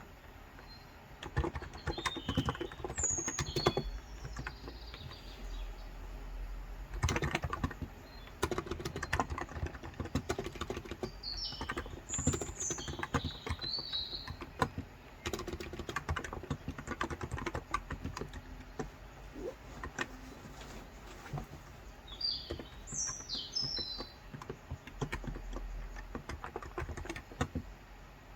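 Typing on a Cox Endeavor tenkeyless keyboard with 35 g electro-capacitive (Topre-style) switches: a steady, irregular stream of keystrokes that starts about a second in. Small birds chirp in three short bouts behind the typing.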